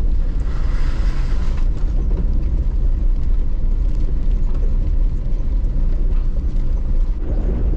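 Jeep Wrangler LJ rolling down a rough mountain trail: a steady low rumble of its straight-six engine and tyres, with a brief hiss in the first second and a half.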